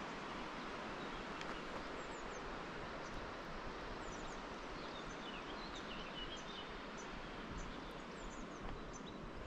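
Small birds chirping, short quick calls repeated many times, over a steady rushing background noise.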